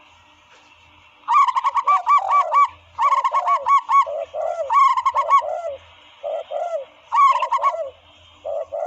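Dove calls played as a hunting lure: from about a second in, bursts of rapid, short, arched notes, five or six a second, alternating with lower cooing notes.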